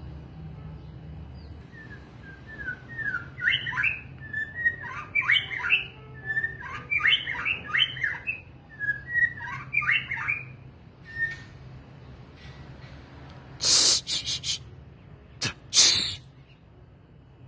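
Songbird singing a run of short whistled chirps and quick rising notes, then two loud harsh rasping bursts near the end.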